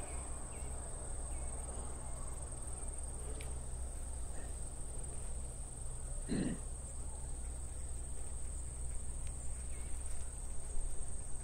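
Steady, high-pitched insect trilling, typical of crickets, running without a break, with a brief soft human voice sound about six seconds in.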